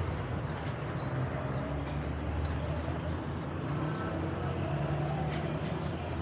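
Street ambience dominated by a motor vehicle engine running steadily close by, with faint voices in the background.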